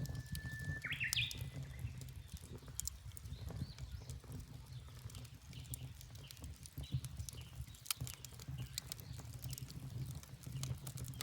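Wood fire crackling with sharp, irregular pops over a low steady rumble. A bird sings a held whistled note followed by quick rising notes in the first second and a half, with fainter bird calls later on.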